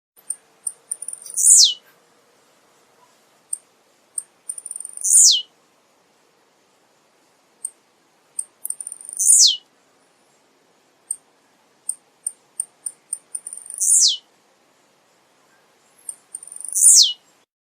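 Male blue-black grassquit (tiziu) singing: five short songs spaced about three to four seconds apart. Each song is a few quick, high ticks followed by a loud, sharply falling note.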